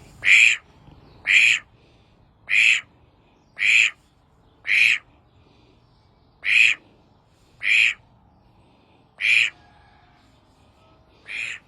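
Male duck (drake) calling: nine short, hoarse, raspy quacks, roughly one a second with a longer pause midway; the last is quieter.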